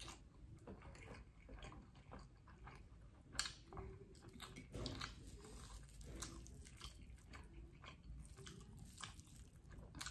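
Faint chewing and wet mouth sounds of people eating rice and sambal by hand, with scattered small clicks and one sharper click about three and a half seconds in.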